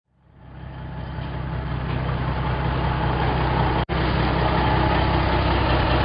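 Transporter truck engine running steadily at a low hum. It fades in at the start and cuts out for an instant a little before four seconds in.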